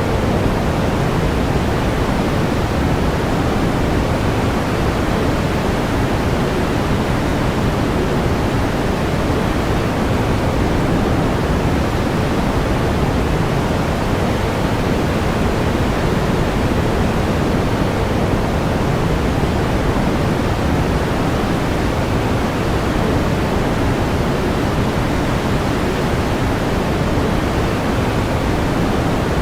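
Steady pink noise, an even hiss weighted toward the low end, unchanging throughout.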